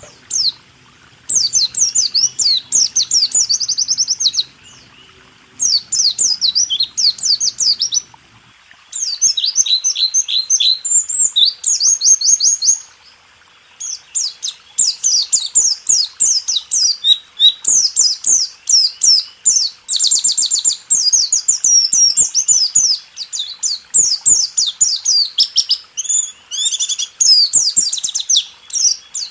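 Pleci (white-eye) singing its 'rool tembak' song: fast runs of high, chattering notes in bursts of a few seconds with short gaps, then almost unbroken from about halfway on.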